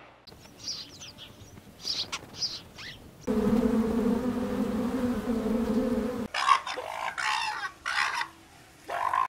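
A run of animal sounds: high, short chirping calls, then an insect buzzing steadily for about three seconds, then a further series of calls near the end.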